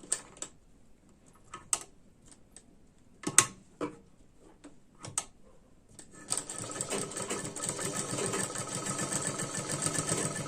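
A few scattered clicks and taps of handling, then, about six seconds in, a sewing machine starts and runs steadily at a fast even rhythm, stitching a sleeve onto a blouse armhole.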